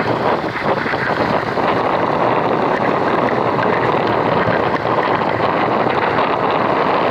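Steady noise of wind and a boat at sea, with wind buffeting the microphone.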